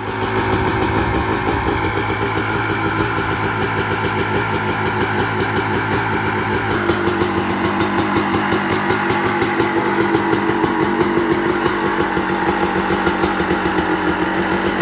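Kawasaki KX250 motocross bike's two-stroke single-cylinder engine idling steadily, with a rapid, even beat.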